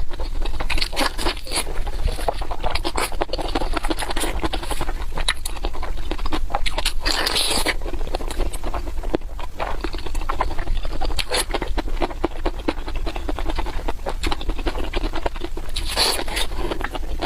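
Close-miked eating sounds: wet chewing, smacking and crunching, full of quick clicks, with a louder crunchy burst about seven seconds in and again near the end.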